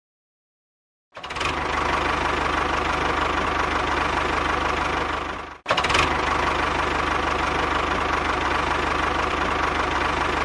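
An engine running steadily with a fast, even low pulse. It starts about a second in, cuts out for an instant midway and starts again.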